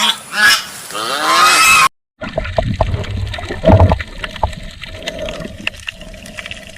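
An animal calling in a few loud cries whose pitch bends up and down. After a brief silent break, water gurgling and trickling with scattered clicks and low thuds.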